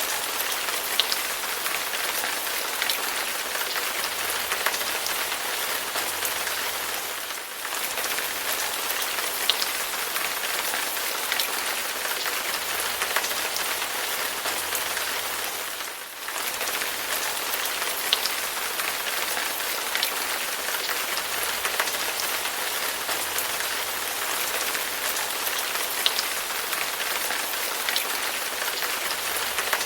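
Steady rain falling on a hard surface: an even hiss with scattered sharper drop ticks. The sound briefly dips twice, about a quarter of the way in and just past halfway.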